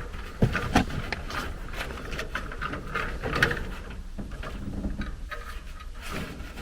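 Small clicks, taps and scraping of hands connecting wires to a furnace control board's terminals, with two sharper clicks within the first second.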